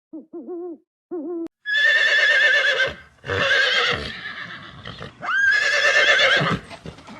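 Animal calls: a few short, low, wavering hoots in the first second and a half, then three loud, long, quavering calls, each about a second long.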